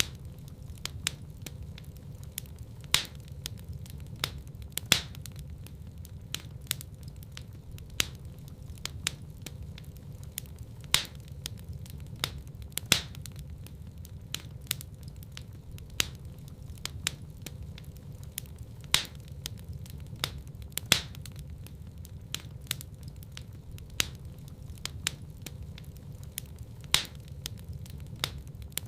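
Wood fire burning in a fireplace, crackling: a steady low rumble with frequent small snaps and a louder pop every couple of seconds.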